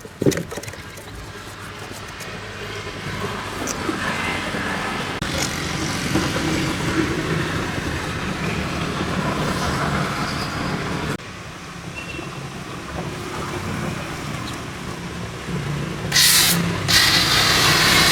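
Steady low hum and workshop handling noise, then, about sixteen seconds in, a pressure washer's spray starts with a loud, steady hiss.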